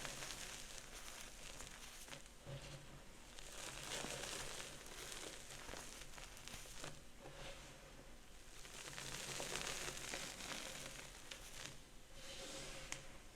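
Gym chalk being crushed and crumbled, a crunchy crackling with small snaps that swells and fades several times.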